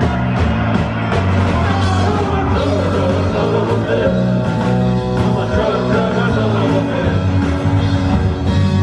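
Live rock band playing loudly through a song, with a steady drum beat over a sustained bass line.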